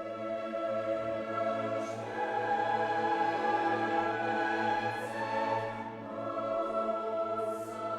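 Choir singing with orchestra in slow, sustained classical chords.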